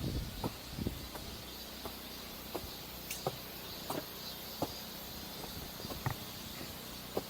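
Footsteps of a hiker walking at a steady pace, a short sharp step every half second or so, over a steady hiss.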